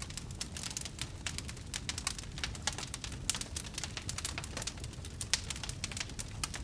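Wood fire burning in a fireplace, crackling with dense, irregular pops and snaps over a low, steady rumble of the flames.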